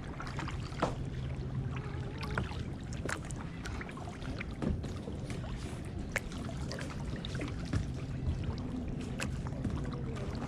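Kayak paddles dipping and dripping in shallow water, with scattered light splashes and knocks at irregular intervals over a faint low steady hum.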